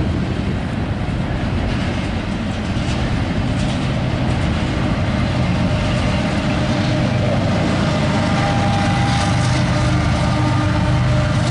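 Double-stack intermodal container train rolling steadily through a grade crossing: a continuous rumble of wheels on the rails. A few faint steady tones join in during the second half.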